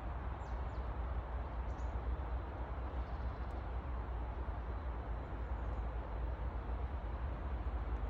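Steady rushing outdoor noise with a deep rumble, and a few faint, short high bird chirps in the first couple of seconds.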